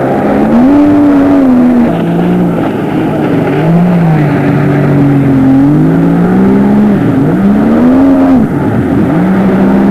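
Jet ski engine running loud, its pitch repeatedly rising and falling as the throttle is opened and eased off while it carves around on the water.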